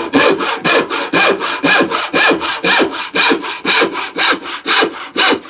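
Hand saw cutting through a wooden stick with quick, even back-and-forth strokes, about four a second, stopping near the end.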